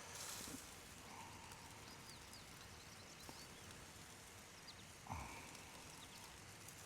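Near silence with faint outdoor background, a run of faint high chirps around two to three seconds in, and a soft bump about five seconds in.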